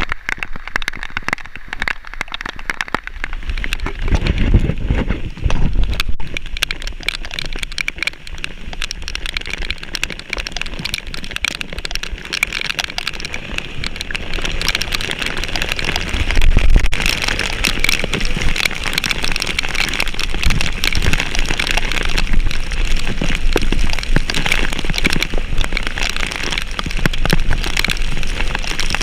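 Heavy rain falling, the drops crackling on a surface close to the microphone. Low rumbles swell up a few seconds in and again about halfway.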